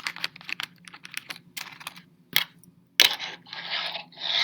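Fingerboard being flicked and popped on a small obstacle: a run of light sharp clicks from the deck tail, trucks and wheels, then a louder landing click about three seconds in and the wheels rolling in short hissing stretches.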